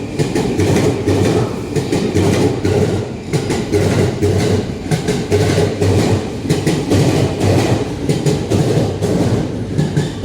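A 15-car Sobu Rapid Line electric train running into the platform, its wheels and running gear rumbling and clattering over the rails.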